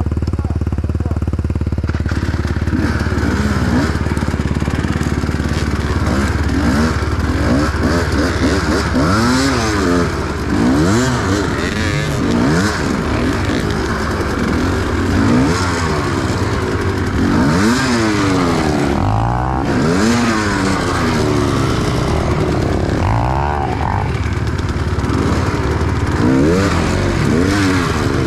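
Enduro motorcycle engine being ridden hard off-road, its pitch rising and falling again and again as the throttle is opened and closed.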